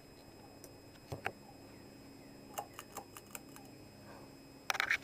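FASCO Charleston stack-motor ceiling fan running with a faint steady hum; its bearings are in very bad shape. Scattered clicks and ticks sound about a second in and around the middle, with a brief rattle of clicks near the end.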